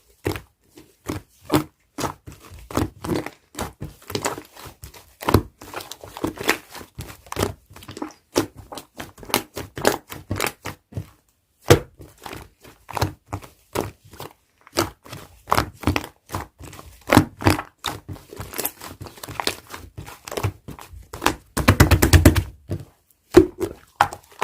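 Slime being mixed and squeezed by hand, making irregular wet clicks, pops and crackles of trapped air. Near the end comes a loud, quick run of crackles lasting about a second.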